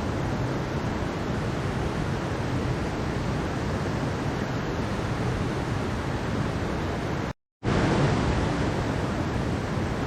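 Mountain stream rushing over rocks: a steady, even wash of water. It cuts out completely for a split second about seven seconds in, then resumes.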